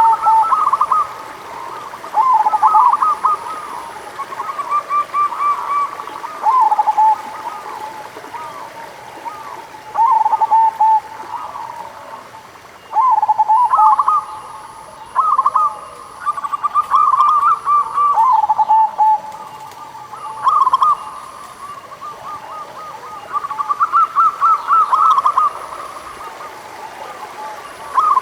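Zebra doves (perkutut) calling: about ten short phrases of quick, bouncing coos, each lasting a second or two, with irregular pauses between them.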